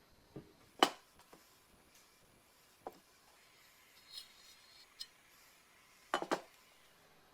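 Metal parts of a dismantled car jack being handled and set down on a workbench: a few separate clicks and knocks, the loudest about a second in and a quick double knock near the end.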